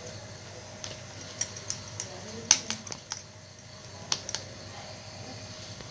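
Light, irregular clicks and taps of hands and fingers against a steel plate while rolling rice-flour dough into balls, about nine of them in the first four and a half seconds, over a faint steady hum.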